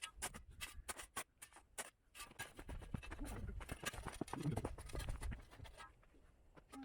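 Shovel scraping and crunching in garden soil: a run of short, irregular scratches and knocks.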